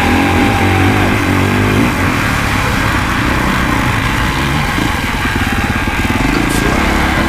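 Honda CRF450RX dirt bike's single-cylinder four-stroke engine running while being ridden, its pitch rising and falling with the throttle.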